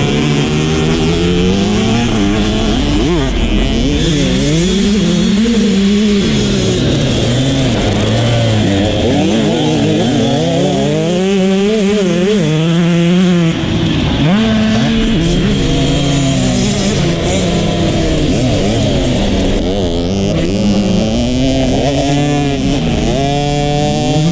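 Dirt bike engine being ridden hard, its pitch repeatedly climbing and dropping with throttle and gear changes, with a brief break about halfway through.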